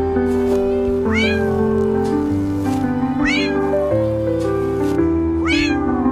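A cat meowing three times, about two seconds apart, each meow sliding up in pitch and then down, over steady background music.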